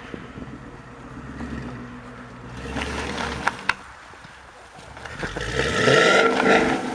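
A car engine running low, then revving up, rising in pitch and getting louder over the last two seconds as the car pulls away. Two sharp clicks halfway through.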